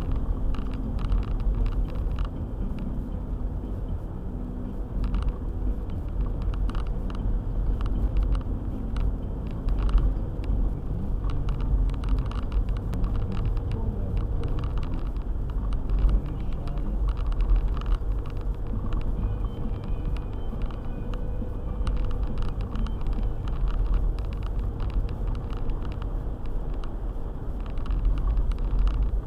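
A car driving, with a steady low rumble of engine and tyres and frequent short clicks and knocks throughout.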